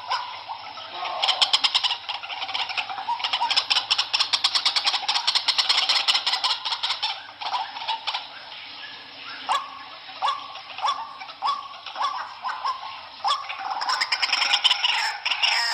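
White-breasted waterhen calling: a fast run of harsh repeated notes, then a steady series of short rising notes nearly twice a second, thickening into overlapping calls near the end.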